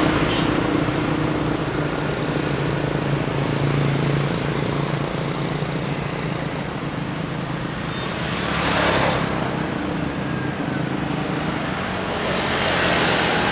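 Jet engines of a Boeing 737 taking off, heard at a distance as a steady roar of noise that swells briefly about nine seconds in and again near the end.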